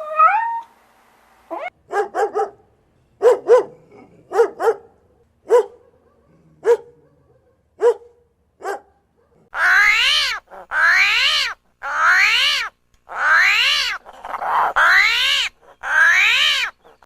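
An animal calling: a series of short yelps about a second apart, then six longer calls, each rising and falling in pitch.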